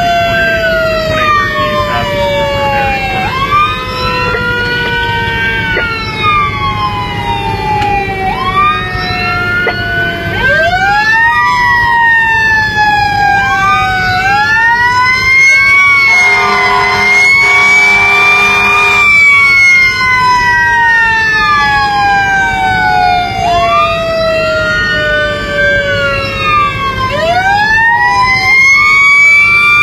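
Fire engine running with its sirens on: siren tones that rise quickly and fall away slowly, again and again, several overlapping, over a steady low engine and road rumble. About halfway through, a steady multi-tone air-horn blast sounds for about three seconds.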